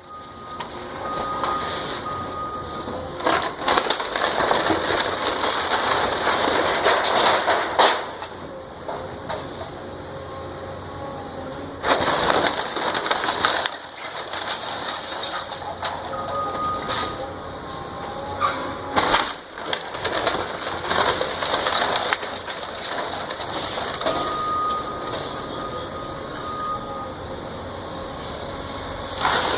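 Heavy demolition machinery tearing down a house: a continuous mechanical din with thin whining tones that come and go, and louder stretches of crashing and crunching debris about 4 to 8 seconds in and again about 12 seconds in.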